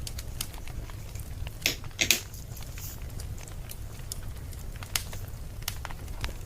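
Wood fire burning with a steady low rumble and scattered crackles, with a louder pair of pops about two seconds in.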